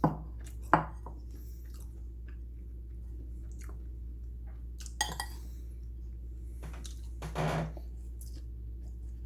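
Cutlery knocking against a dish a few times, with sharp clicks at the start, just under a second in and about five seconds in, and a longer scrape or chewing sound about seven seconds in, over a steady low hum.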